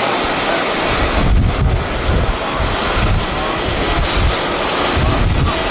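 Passenger jet engines giving a steady, loud rushing noise, with strong gusts of wind buffeting the microphone in irregular low thumps.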